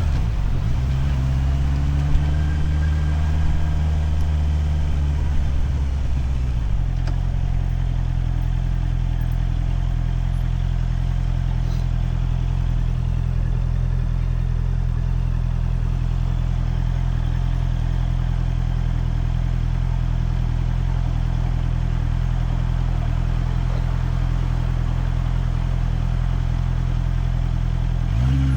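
Motorcycle engine running at low speed, its pitch shifting slightly, with a few light clicks. About seven seconds in it settles into a steady idle that holds unchanged.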